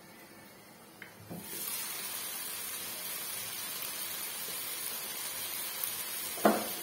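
A small clink as the glass lid is lifted off a non-stick wok about a second in, then the vegetable sabzi in the pan sizzles steadily. One sharp knock near the end.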